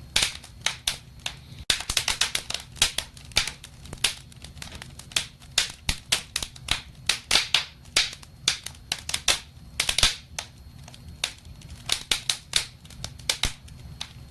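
Wood fire crackling in a fireplace: dense, irregular pops and snaps over a low, steady rumble of the flames.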